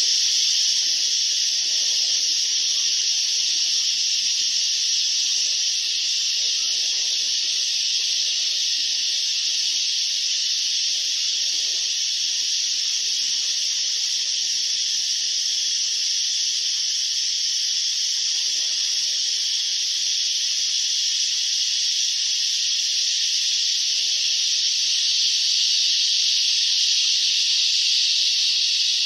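Chorus of cicadas: a continuous, high-pitched, even buzzing drone that swells slightly near the end.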